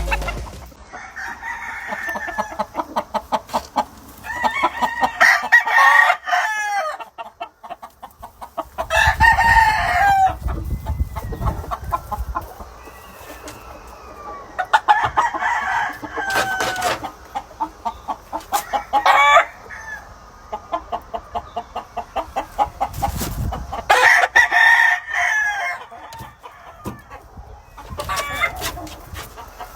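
Roosters crowing again and again, about six long crows spread through, some overlapping, with hens clucking between them. A low rumble comes in about a third of the way through and again near the end.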